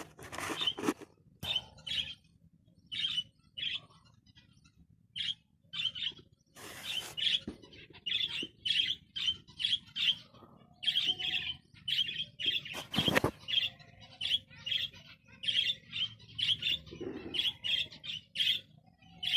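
Zebra finches calling: a run of short, high calls, sparse at first and then about two or three a second. A few louder rustling knocks, the loudest about 13 seconds in, break through.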